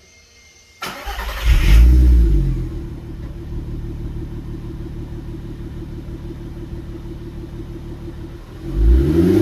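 2003 Volkswagen Jetta GLI's 2.8-litre 24-valve VR6 engine starting through a Milltek resonated exhaust: about a second in, a short crank, then it catches, flares up and settles into a steady idle. Near the end the throttle is blipped and the revs rise.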